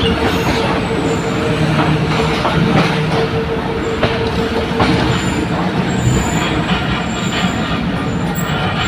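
A train running on the track: a steady rumble with scattered clicks from the wheels. A thin, high wheel squeal comes in during the second half.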